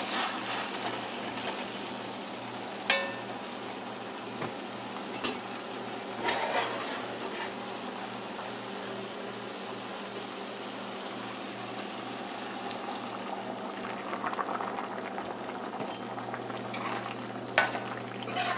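Curried shrimp sizzling as they dry-fry in their own juices in a pot, stirred with a spoon that knocks against the pot a few times. Near the end hot water has gone in and the pot is bubbling.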